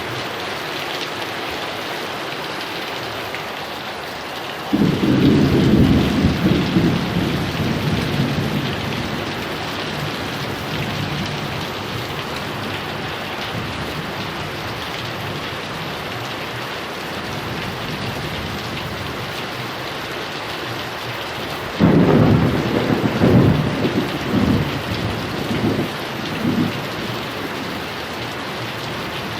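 Steady heavy rain with two rolls of thunder: one cracks in about five seconds in and rumbles off over a few seconds, a second breaks about two-thirds of the way through and rolls on in several deep peals.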